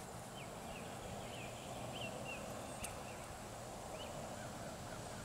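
Outdoor ambience of short bird chirps, several in the first couple of seconds and one more about four seconds in, over a faint steady high-pitched tone and a low rumble, with a single sharp click near the middle.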